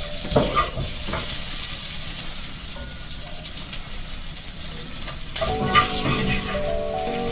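Food sizzling as it fries in a pan, with a few short scrapes of a utensil in the first second or so. Background music comes in about five seconds in.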